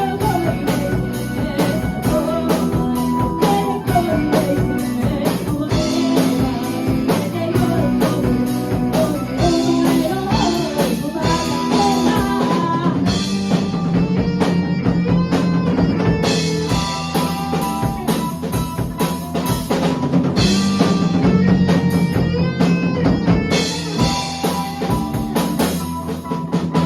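Rock band playing a song: drum kit with snare rimshots and bass drum driving a steady beat under electric guitars and bass, with a melodic line sliding in pitch over the top.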